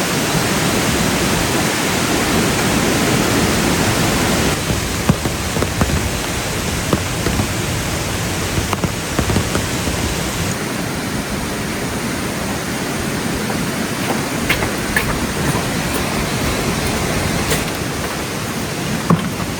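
Steady rushing water noise with a few faint clicks and taps; the hiss turns duller about ten seconds in.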